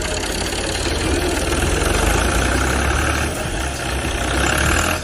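Diesel tractor engine running hard with a steady low firing pulse and clatter, typical of a tractor straining to pull another tractor out of mud. It grows a little louder a second or two in.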